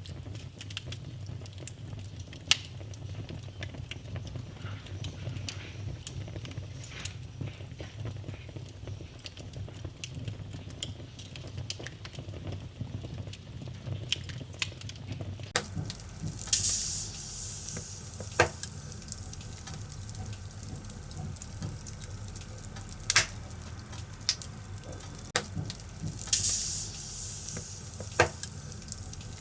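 Firewood burning in a fireplace: a steady low rumble of flame with scattered sharp crackles and pops, and two short hissing spells, about halfway through and again near the end.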